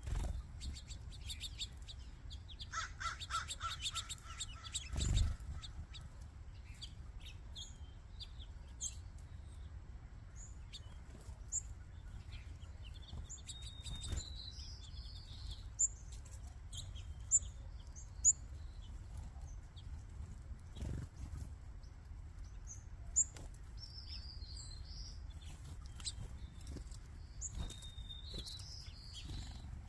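A flock of small backyard birds calling and chirping with short, high notes scattered throughout. About three seconds in comes one longer, lower call that repeats quickly and lasts a couple of seconds. A few sharp taps sound here and there.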